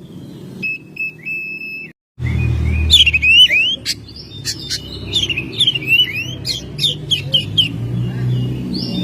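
Oriental magpie-robin singing: a few short held whistles, then, after a brief break, a fast run of rising and falling whistled notes mixed with sharp chirps. A low rumble runs underneath.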